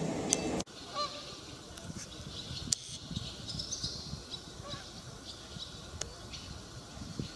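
A louder low hum with steady tones cuts off abruptly under a second in. It is followed by quiet outdoor background noise with a few scattered bird calls and a single sharp click about three seconds in.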